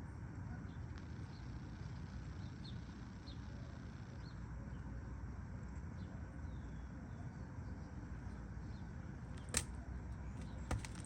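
Outdoor wind rumbling on the microphone, with faint short high chirps of birds scattered through it and a few sharp clicks near the end.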